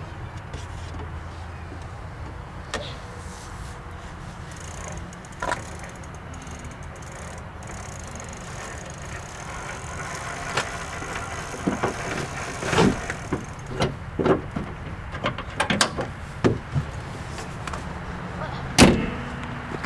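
2003 Toyota Corolla engine idling steadily, with a series of knocks and clicks in the second half and a louder thump near the end.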